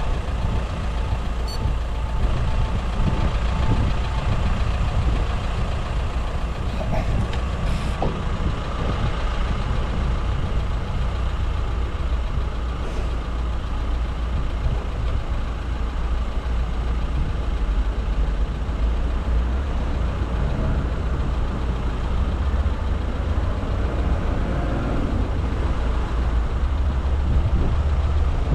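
Steady rumble of wind on an action camera's microphone together with road noise, recorded from a road bike while riding.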